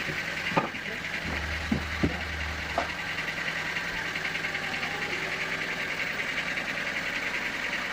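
Sawmill machinery running steadily, with a low hum that drops away about three seconds in and several short knocks in the first three seconds.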